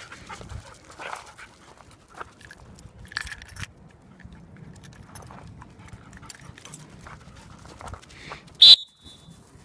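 A single short, loud blast of a dog-training whistle near the end, the one-whistle signal for the dogs to sit. Faint dog sounds come before it.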